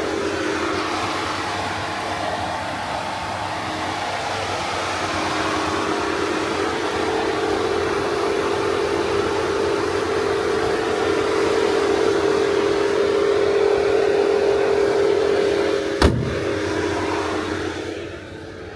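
Audi A4's 1.8 TFSI turbocharged four-cylinder petrol engine idling steadily, heard with the bonnet open, then a single loud thump about sixteen seconds in as the bonnet is shut.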